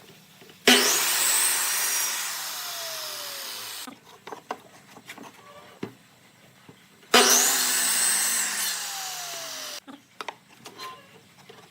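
A power tool working wood in two bursts of about three seconds. Each burst starts suddenly, fades slowly and cuts off abruptly. Small knocks and handling sounds fall between the bursts.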